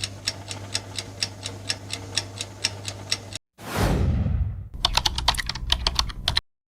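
Keyboard typing sound effect: a run of even key clicks, about four a second, over a low hum. A falling whoosh comes about three and a half seconds in, then a faster, uneven burst of typing that stops abruptly.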